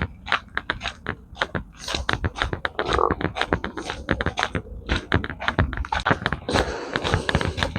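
Raindrops falling from the trees, heard as a dense, irregular crackling of sharp ticks, several a second.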